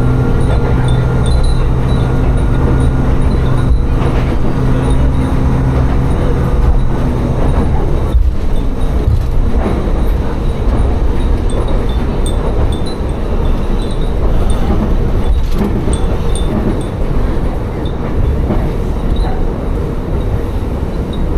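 Diesel railcar running along the line, heard from aboard. The engine's hum eases off about six seconds in and the car coasts on with a wheel rumble and a few rail-joint knocks. Wind chimes hung in the car tinkle lightly throughout.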